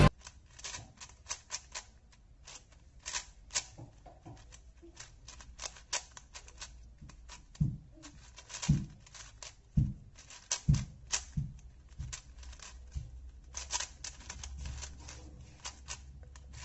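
A 4x4 speed cube being turned by hand during a solve: quick, irregular plastic clicks and clacks as its layers are turned. There are a few low knocks around the middle.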